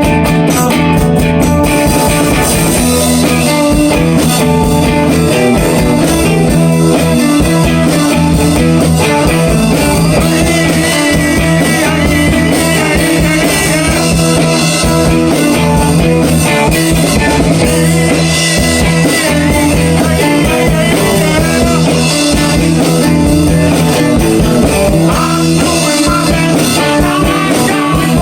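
A rock band jamming on a riff: electric guitar over a drum kit, loud and steady.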